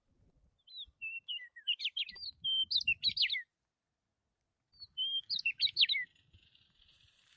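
Birds chirping and singing in two bursts of quick, high chirps and short whistled notes, with a pause of about a second between them.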